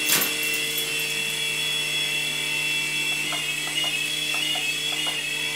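Small battery-powered electric motors and rotors of a 3.5-channel toy RC helicopter hovering, a steady high whine. There is a sharp click at the start and a few faint ticks a few seconds in.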